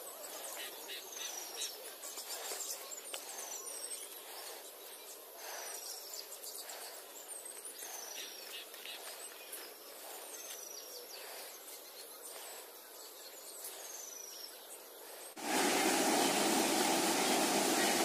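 Outdoor park ambience with a bird repeating a short, high, falling whistle every second or two. About fifteen seconds in, this cuts off abruptly and a loud, steady rushing noise takes over.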